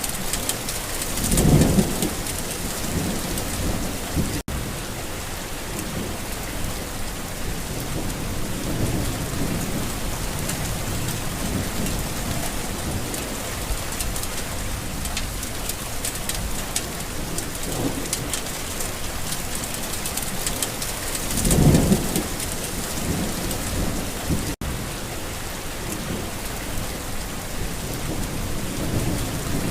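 Steady heavy rain with two low rumbles of thunder, one about a second in and another about twenty seconds later.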